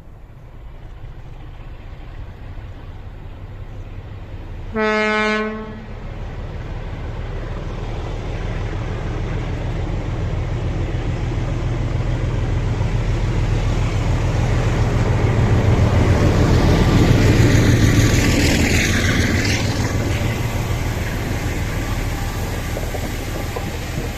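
A train sounds its horn once, a single steady note under a second long, then runs past with a rumble that swells to its loudest about three-quarters of the way through and then fades.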